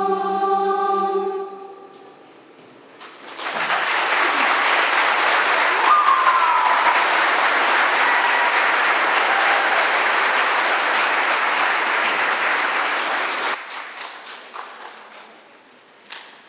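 A choir's held final chord cuts off, and after a short pause an audience applauds for about ten seconds before it thins out to a few scattered claps.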